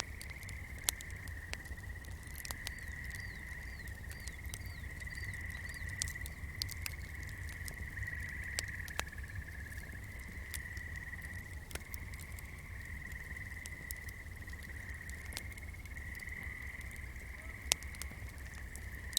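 Swamp ambience: a steady chorus of frogs calling at one high pitch over a low rumble, with scattered sharp crackles and pops from a candle flame. A short run of quick chirps comes a few seconds in.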